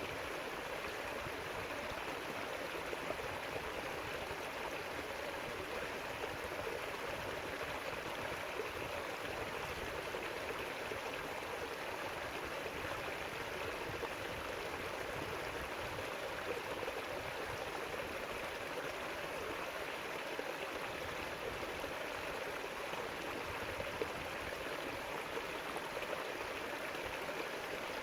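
River water rushing and burbling steadily over its bed.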